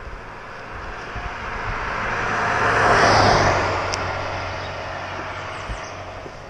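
A vehicle passes close by a moving motorcycle: a rushing whoosh that swells to a peak about three seconds in and fades away, over the motorcycle's low steady hum and wind noise.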